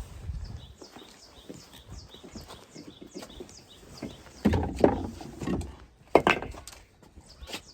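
Small birds chirping throughout, with a run of loud knocks and scuffling clatters about halfway through and another sharp knock a little later.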